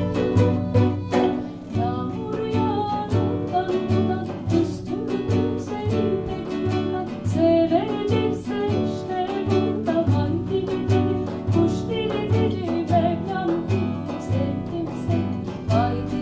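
Instrumental folk music: plucked acoustic guitar and mandolin over a steady pulsing bass, with a lead melody line that slides between notes.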